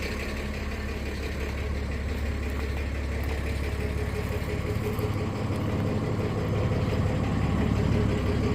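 A steady, low mechanical drone, like a motor or engine running at a constant speed, with a faint steady whine above it.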